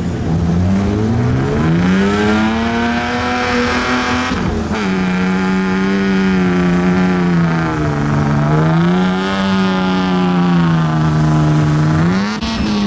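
Engine of a mud-covered BMW E39 5 Series revving as the car slides through deep mud, its pitch climbing, holding high and dropping back with the throttle. The sound breaks off abruptly about five seconds in and again near the end, where the footage is cut.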